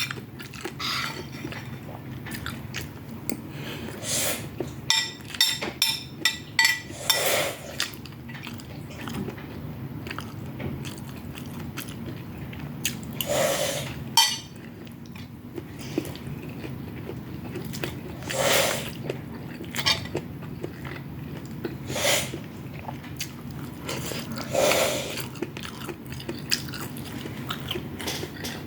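Close-miked chewing and mouth sounds of someone eating fried rice with chicken and vegetables, with a quick run of small clicks about five seconds in and a handful of louder, separate smacks spread through. A low steady hum runs underneath.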